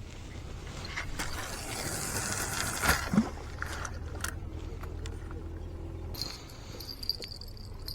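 Scraping and rustling with a few sharp clicks, louder in the middle, then a thin steady high-pitched tone over the last two seconds.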